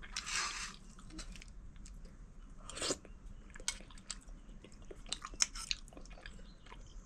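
A person chewing and eating a meal close to the microphone: many small clicks and mouth sounds, with two brief louder noises, one at the start and one about three seconds in.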